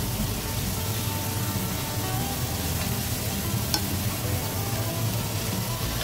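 Potato slices sizzling as they fry in hot oil in a pan, stirred by a utensil, with one sharp click about two-thirds of the way through.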